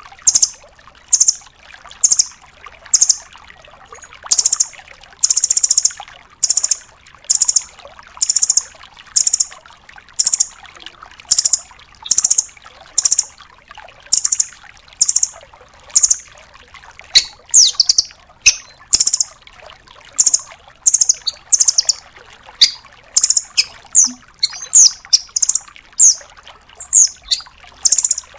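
A rambatan doraemon (nuthatch) calling in sharp, high-pitched bursts, about one a second at first and then faster and more varied in the second half, over a faint hiss of flowing water.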